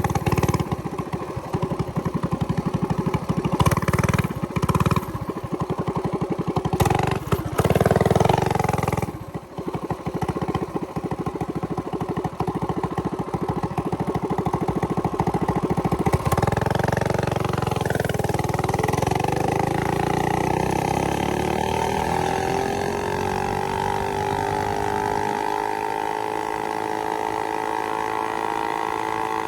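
Coleman CT100U mini bike's small single-cylinder engine under way, revving in uneven surges with a brief drop about nine seconds in. From about sixteen seconds it pulls steadily, its pitch climbing and then levelling off.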